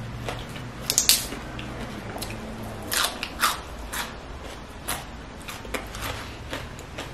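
Close-miked eating of raw red kale leaves: a scatter of crisp crunches and chewing. The loudest crunches come about a second in and around three seconds in.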